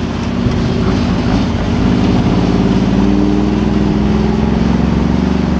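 Mercedes-Benz G63 AMG 6x6's twin-turbo V8 engine running under load as the six-wheeled truck drives through soft sand, its note rising a little a couple of seconds in and then holding steady.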